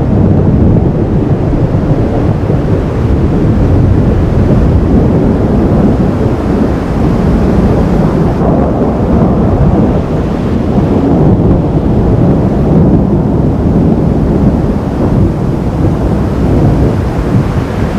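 Thunderstorm noise: a loud, steady low rumble with no separate cracks or claps.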